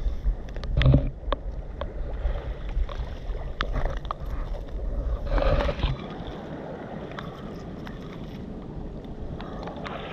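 Wind buffeting the microphone as a low rumble, with scattered sharp clicks and knocks during the first six seconds. After that it settles to a steady outdoor hiss.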